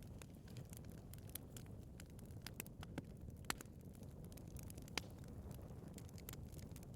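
Wood fire burning in a fireplace: irregular crackles and small pops over a steady low rumble of the flames, with two sharper pops about halfway through and about five seconds in.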